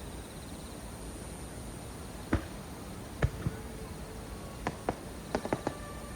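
Fireworks shells bursting: a series of about nine sharp bangs, one or two at first and then a quick cluster near the end, over a steady high insect-like hum.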